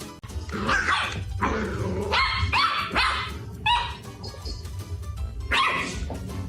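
A dog barking about six times in a string of short, high-pitched barks, over background music.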